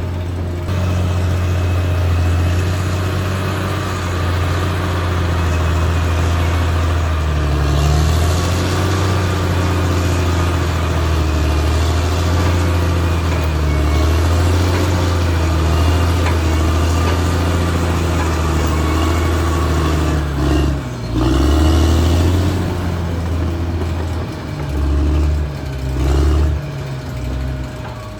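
Caterpillar D6R XL bulldozer's diesel engine running steadily under work, its note dipping and picking up again several times in the last several seconds.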